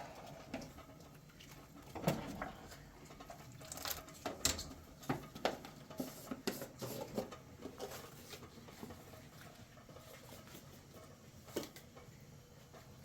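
Scattered light clicks and taps of objects being handled, with a few sharper knocks about two, four and a half, and eleven and a half seconds in.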